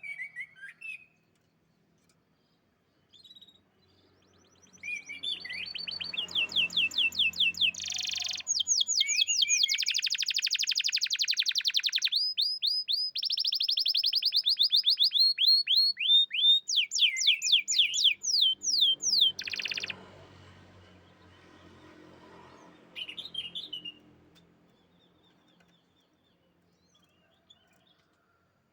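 Domestic canary singing: a long song of fast repeated trills, one run of notes after another, lasting about fifteen seconds, with short chirps before and after it.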